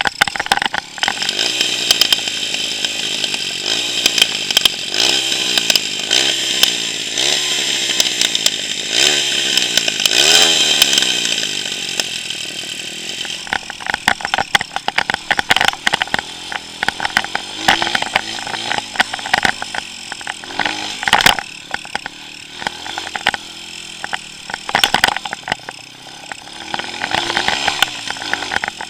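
140cc pit bike's single-cylinder engine revving hard while ridden, its pitch climbing and dropping again and again, with frequent knocks and rattles that grow more frequent in the second half.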